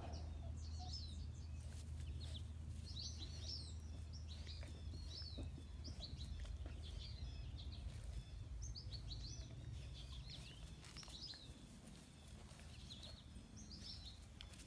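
Birds chirping and singing, many short calls in a row, over a steady low hum.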